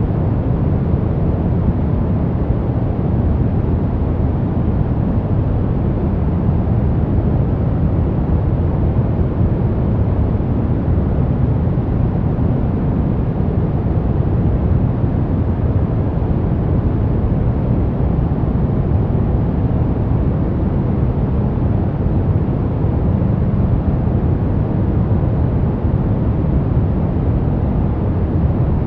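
Steady synthetic white-noise sleep sound, an even, unchanging rushing hiss weighted toward the deep end rather than sharp and bright.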